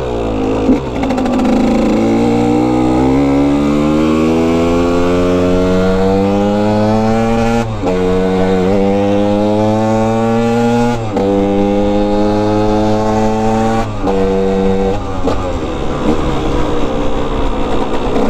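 Dirt bike engine accelerating up through the gears. The revs climb steadily, drop sharply at shifts about 8, 11 and 14 seconds in, then ease off near the end.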